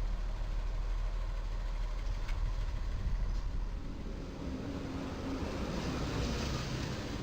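A heavy truck's diesel engine runs amid a low, steady traffic rumble. Its pitched engine note comes up about halfway through.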